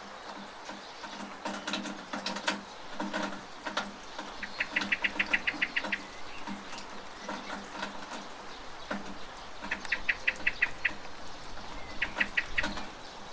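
Steady rain with scattered drips and splashes from a rain gutter, and a small bird giving three quick runs of rapid repeated chirps, the first about four and a half seconds in, the last near the end.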